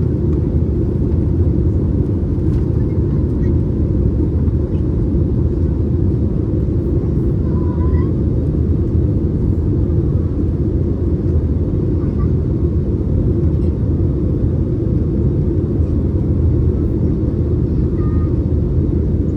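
Airbus A321neo cabin noise: a steady low rumble of jet engines and airflow heard from inside the passenger cabin, unchanging in level.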